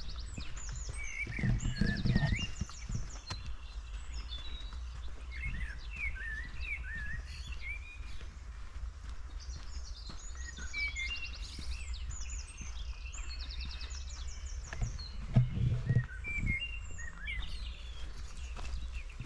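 Small forest songbirds calling on and off, with short chirps, curved whistled notes and quick buzzy trills. Footsteps on the forest floor come in two short bursts, about two seconds in and again near the end, over a steady low rumble of wind.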